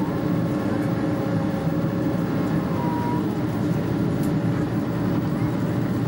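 Lockheed L-1011 TriStar's Rolls-Royce RB211 turbofans heard inside the passenger cabin during the climb: a steady, even drone with a constant hum in it.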